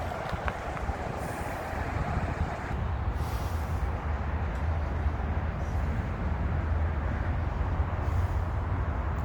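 A vehicle engine running with a low, steady rumble that grows a little louder a few seconds in.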